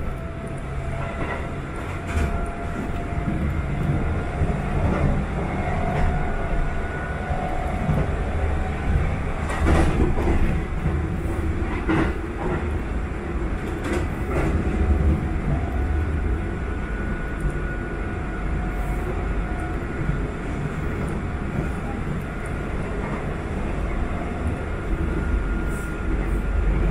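Inside a Sanyo 5000 series electric train running at speed: the steady rumble of wheels on rail, with a faint whine that comes and goes and a few sharp clicks around the middle.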